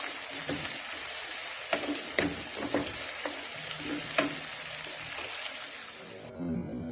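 Onions frying in hot oil, sizzling steadily while being browned for a garnish, with a spoon stirring them and knocking against the pan several times. The sizzle cuts off suddenly near the end.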